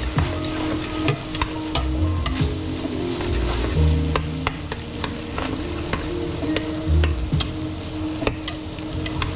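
A spoon stirring burrito filling in a pot, clicking and scraping against the metal, over a steady sizzle of the filling cooking.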